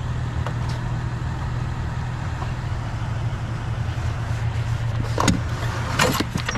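Vehicle engine idling steadily, with a few short clicks or knocks near the end.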